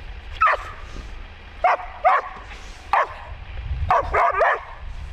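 Blue heeler barking in short, sharp yips, spaced out at first, then a quick run of several barks about four seconds in. A low steady rumble runs underneath.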